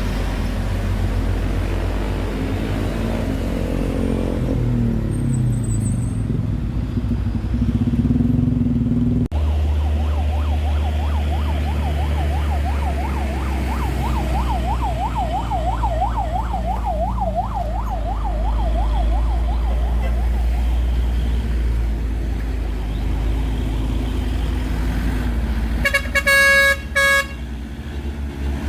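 Heavy road traffic with engines running low underneath. A siren warbles rapidly up and down, about two sweeps a second, for some ten seconds in the middle. A vehicle horn blares loudly near the end, with a brief break.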